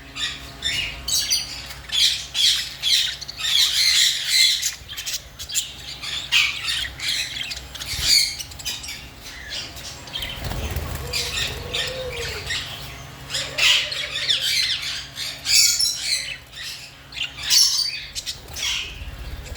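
A flock of budgerigars chattering, a dense run of short high chirps and squawks.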